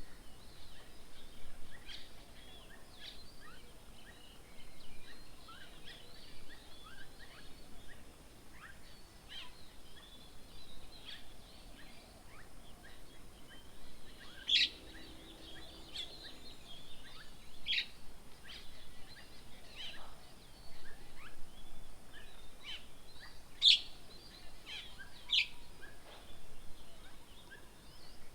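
Wild birds chirping around a garden bird table: a steady scatter of many short, high chirps, with a few louder, sharp calls in the second half.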